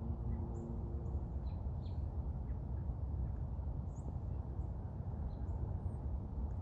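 Faint, short bird chirps at irregular moments over a steady low rumble of wind on the microphone.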